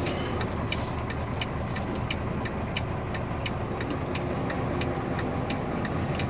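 A truck's diesel engine running heard from inside the cab while reversing, with a steady ticking of the dashboard flasher, about three ticks a second.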